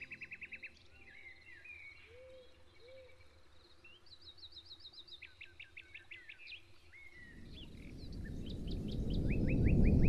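Songbirds calling: quick trills of rapid repeated notes and short slurred chirps. From about seven seconds in, a low rushing noise swells up steadily and drowns them out by the end.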